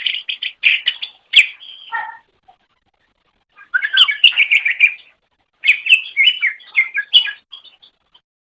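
Cucak ijo (green leafbird) singing: rapid, varied chirping phrases in three bouts separated by short pauses, the last bout trailing off into a few faint notes near the end.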